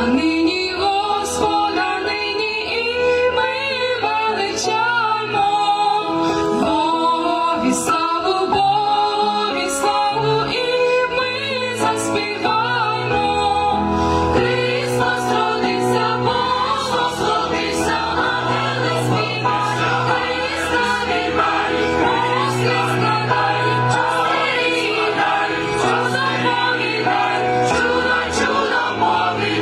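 Mixed choir of women's and men's voices singing a Ukrainian Christmas carol, with a steady low bass line beneath.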